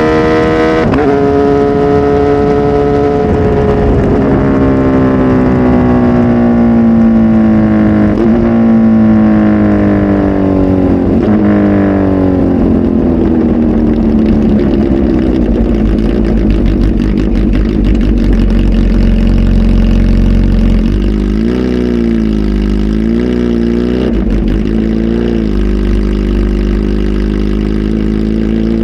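Kawasaki Z H2 SE's supercharged inline-four, flash tuned and breathing through a full aftermarket exhaust, running loud. The engine note falls steadily over about twenty seconds, with several brief upward steps. It then rises and falls in a few quick swells at low revs, and starts climbing again near the end.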